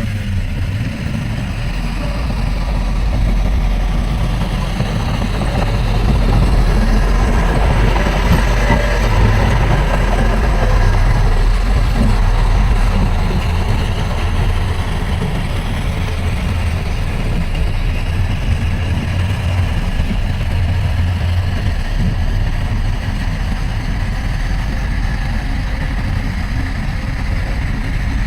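Diesel engine of heavy earthmoving machinery running steadily under work, growing a little louder over the first several seconds and then holding.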